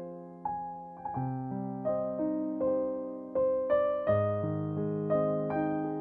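Background music: a slow, gentle piano melody of single struck notes and chords, each note ringing and fading.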